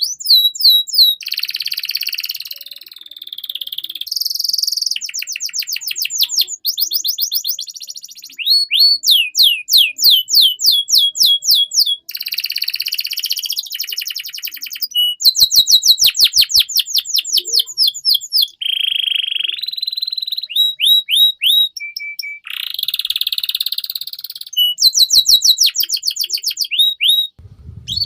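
Domestic canary singing a long, unbroken song: fast trills of one repeated note, each run switching to a new note type every second or two, with buzzy rolls in between.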